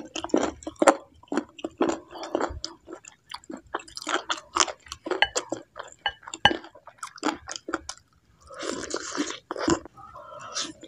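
Close-miked mouth sounds of a person chewing and eating bakso aci (chewy tapioca meatballs) and instant noodles in soup: wet smacks and clicks throughout, with a longer noisy stretch about nine seconds in.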